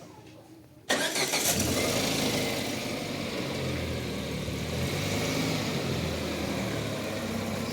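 Car engine starting about a second in, then running steadily with a slightly wavering pitch.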